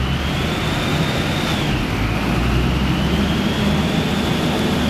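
Supercharged 3.2 VR6 engine of a VW Golf R32 running on a dyno, with a steady low drone. A high whine rides on top: it rises, drops about a second and a half in, then climbs again toward the end.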